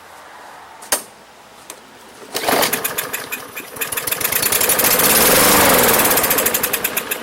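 A 140cc Briggs & Stratton lawn mower engine catches on starting fluid about two and a half seconds in after a click, runs briefly and starts to die away near the end. Running only on the sprayed fluid and then dying is the sign that no fuel is reaching it from the carburetor.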